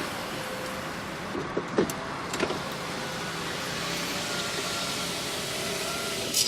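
Power window motors of a Mercedes-Benz ML 320 running steadily as the windows are driven up and down, with a couple of brief squeaks about two seconds in.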